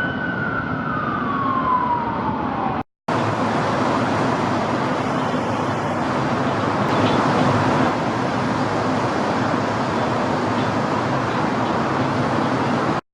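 Emergency vehicle siren on a slow wail, its single tone falling steadily in pitch, cut off about three seconds in. After that comes a steady wash of city street traffic noise with no siren.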